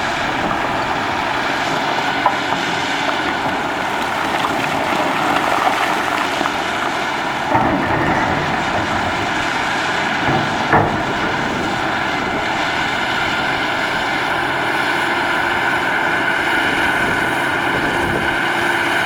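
Cat 6015B hydraulic mining shovel running steadily under work, with a couple of short knocks about seven and a half and eleven seconds in.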